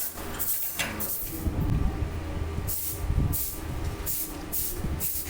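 Workshop noise: a steady low hum under a series of short, irregular bursts of hiss.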